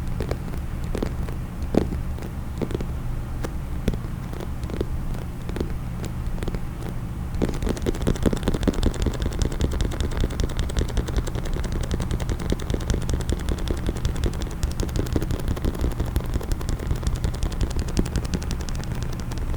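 ASMR tapping on a case: separate, scattered taps at first, then from about seven seconds in a fast, continuous run of taps.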